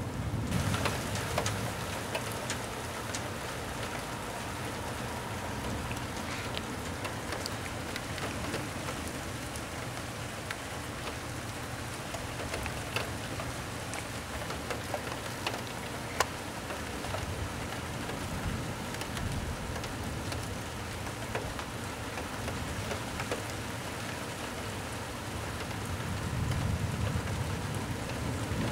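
Steady rain of a thunderstorm falling, with scattered drops ticking close by. A low rumble of thunder begins to build near the end.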